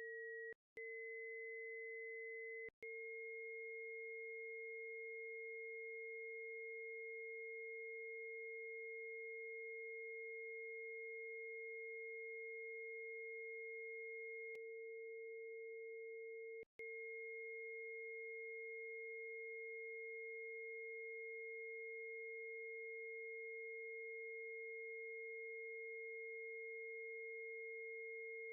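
Two steady pure sine tones sounding together: a lower tone near 460 Hz, the Bb root of a just-intonation tuning scale, and a higher tone near 2 kHz. The higher tone steps up in pitch twice in the first three seconds, and each step comes with a brief break in both tones. Another brief break comes about 17 seconds in.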